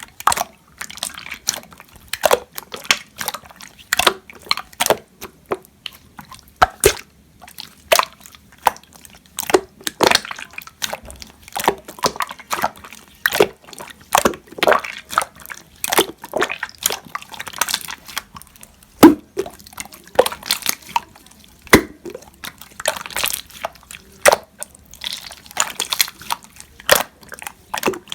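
Slime being squished and pressed by hand, giving irregular wet, sticky clicks and pops, a few each second.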